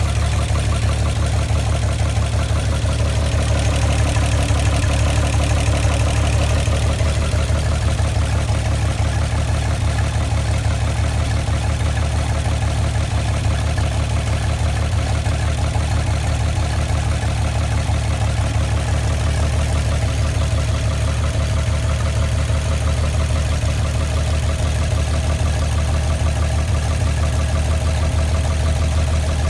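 1960 GMC truck engine idling steadily on its first run after sitting since 1999, with a carburetor that needs work and no coolant in the block.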